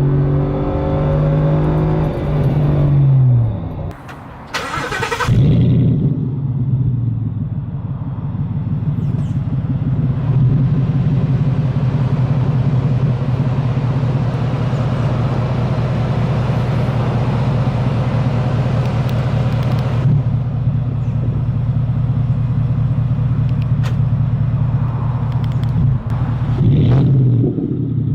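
2016 Ford F-150's 5.0 V8 running through a 4-inch MBRP Ecoboost cat-back exhaust. The engine note falls over the first few seconds, there is a short noise about five seconds in, then the exhaust holds a steady low note for about twenty seconds before changing again near the end.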